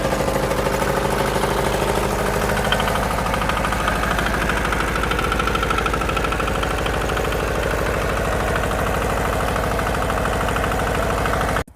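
Howard Gem rotavator's single-cylinder diesel engine running steadily with a fast, even diesel knock, then cutting off suddenly near the end.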